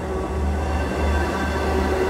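Bilevel passenger train passing at close range: a heavy, steady low rumble from the cars rolling by, with a sustained droning tone held over it.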